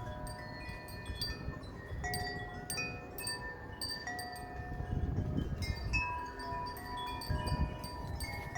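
Several sets of wind chimes ringing continuously, struck over and over by strong gusty wind, many overlapping tones. Gusts rumble on the microphone, strongest about five seconds in and again near seven and a half seconds.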